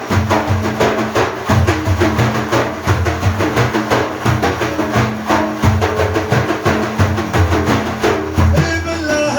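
Frame drums beating a steady, driving rhythm of deep strokes, with a held low note sounding beneath them.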